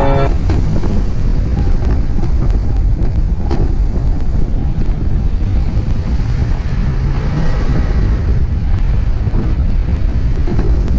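Wind buffeting the microphone: a loud, steady, low rumble with no clear tones.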